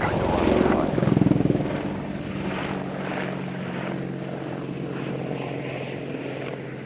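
Aircraft engine droning with a steady pitch. It is loudest about a second in, then slowly fades as the aircraft moves away.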